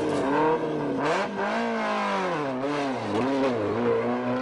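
Peugeot 106 rally car's engine revving hard. Its pitch climbs, then falls and rises again several times as the driver accelerates and lifts off.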